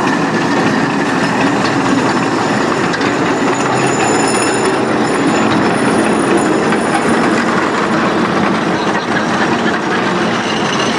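12-inch gauge ride-on miniature train running along its track, a steady rolling rail noise with faint high-pitched tones about four to seven seconds in.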